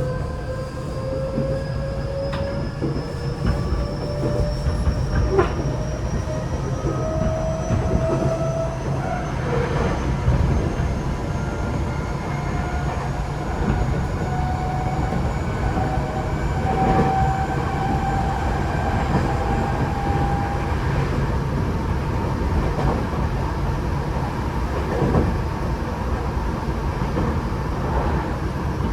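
Tokyo Metro 8000 series train running, heard from inside the car. The Mitsubishi IGBT-VVVF inverter and traction motors give a whine that climbs slowly in pitch as the train accelerates, then fades after about 20 s, under a steady wheel and rail rumble with occasional clicks over rail joints.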